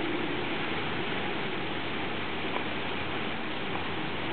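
Heavy rain falling in a thunderstorm: a steady, even rushing hiss with no thunder clap.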